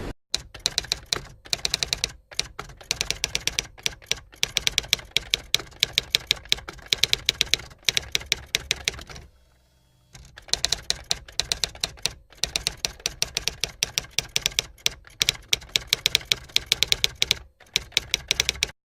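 Rapid typing: bursts of fast, sharp key clicks broken by short gaps, with a pause of about a second roughly nine seconds in.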